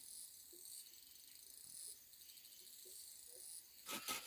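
Insects chirring in a high-pitched haze that swells and fades in pulses, with a quick run of sharp knocks, about six a second, starting near the end.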